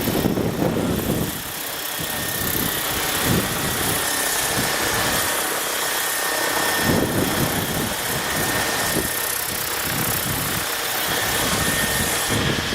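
Electric 800-size RC helicopter (Align Trekker 800) running, its motor and rotors giving a steady whine. Gusts of wind buffet the microphone with an irregular low rumble.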